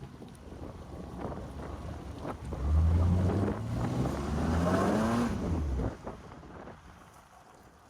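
Car engine revving hard while the car is driven through a muddy, water-filled patch, over a rushing noise of tyres and water. The revs climb for about three seconds from roughly three seconds in, then drop off suddenly near six seconds.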